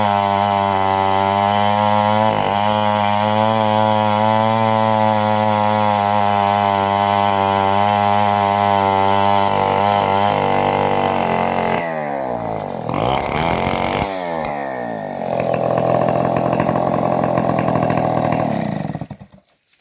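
Engine-driven homemade bandsaw sawing trembesi (rain tree) wood, the engine running steadily under load. About two-thirds through, its pitch wavers and dips, then it runs on steadily before cutting off sharply near the end.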